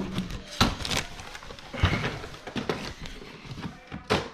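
Toy monster trucks knocking and clattering as they are put into a container, several separate knocks a second or so apart.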